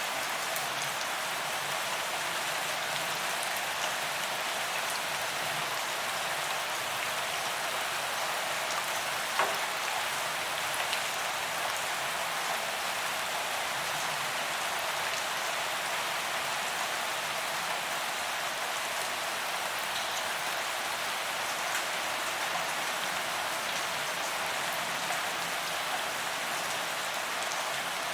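Steady rain falling on pavement, a constant hiss of drops with scattered individual drop clicks; one louder drop or splash about nine and a half seconds in.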